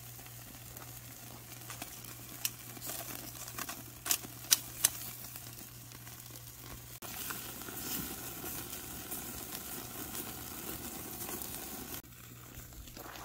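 Pork back ribs sizzling on a barbecue grill, a steady frying hiss with a few sharp clicks and pops about four to five seconds in. The sizzle drops away near the end.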